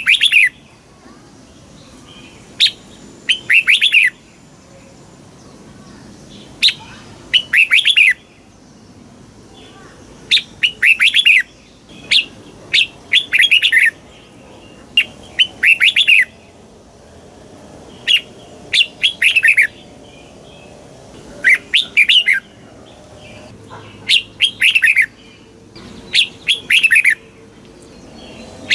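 Red-whiskered bulbul singing: short, clear phrases of several quick notes, repeated every two to three seconds.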